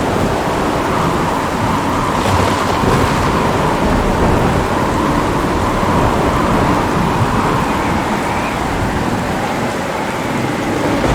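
Steady heavy rain falling, with low rolling thunder rumbling underneath; the level stays even, with no sharp crack.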